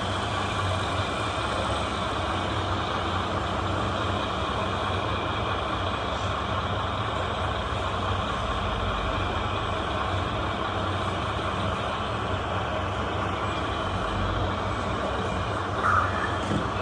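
Radio-controlled model construction trucks running: a steady mechanical hum and whine of their motors and engine-sound units, with a brief louder chirp near the end.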